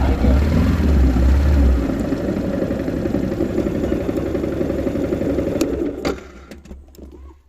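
Yamaha R15 motorcycle's single-cylinder engine running, louder for the first two seconds and then idling, until it cuts off suddenly about six seconds in. A few sharp clicks follow.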